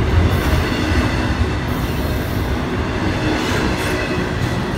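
Double-stack intermodal freight train's well cars rolling past: a steady, dense rumble of steel wheels on the rails.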